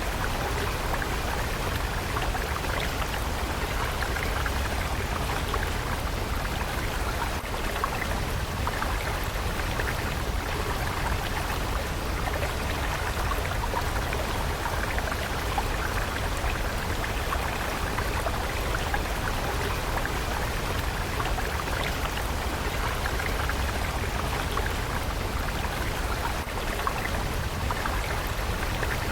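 A flowing water stream, a steady even rushing and trickling with fine splashy detail.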